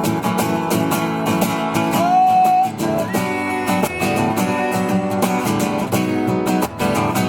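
Live acoustic music: a strummed acoustic guitar in a steady rhythm, with a high sliding note about two seconds in and no singing.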